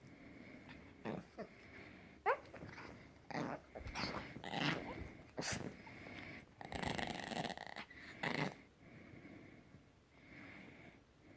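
Puppy making odd vocal noises: a short rising squeak about two seconds in, then a string of rough, noisy grunt-like bursts lasting until about eight and a half seconds.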